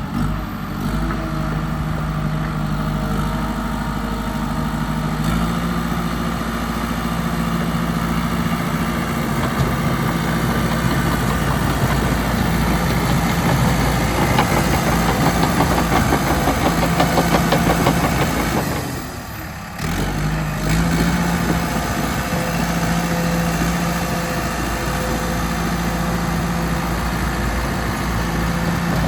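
Cat D5K XL crawler dozer's C4.4 turbo diesel engine running steadily. It grows louder for several seconds in the middle, then drops away briefly about two-thirds of the way through before the steady running resumes.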